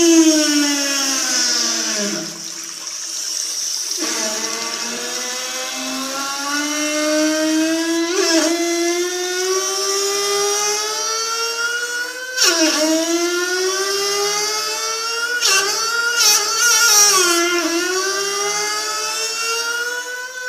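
Bathroom plumbing singing with a loud pitched whine. The pitch slides down, then climbs slowly over several seconds, drops sharply about twelve seconds in and climbs again, wavering near the end, much like a Formula 1 engine revving through its gears.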